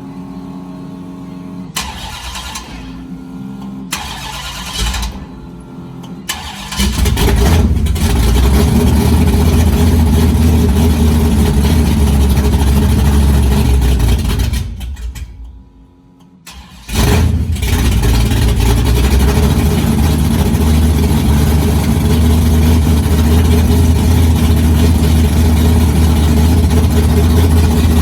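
1973 Dodge Challenger's 440 big-block V8 being started for the first time after a rebuild. It turns over in uneven spurts, catches about seven seconds in and runs loudly, dies out around halfway through, then fires again and keeps running.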